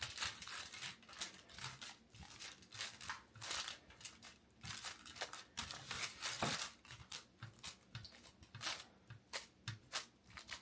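Parchment paper crinkling and rustling in short, irregular strokes as a chicken-and-egg protein pizza crust mixture is spread out on it.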